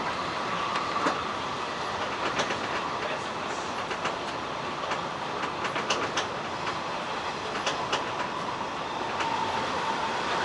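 Hanshin 1000 series electric train running at speed, heard from inside the car: a steady rumble with irregular clicks, some in pairs, as the wheels pass over rail joints. A faint steady whine comes in at the start and again near the end.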